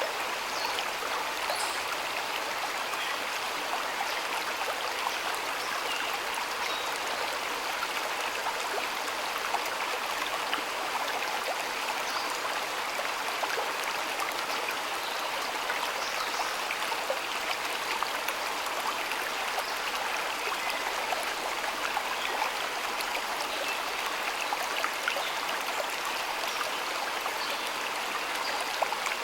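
Shallow stream water flowing and splashing steadily, with many small droplet-like ticks over an even rush.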